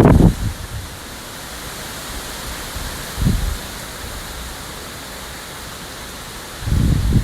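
Steady rushing outdoor noise with wind buffeting the microphone in low rumbling gusts: one at the start, a short one about three seconds in, and a longer one near the end.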